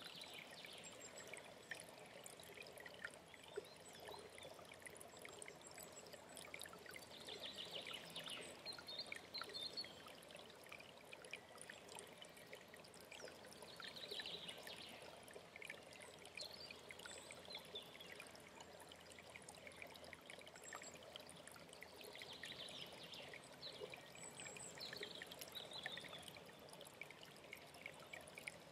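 A small mountain stream running and trickling steadily at a low level. Songbirds sing in short phrases every several seconds over it, clearest about a quarter and half of the way in and again near the end.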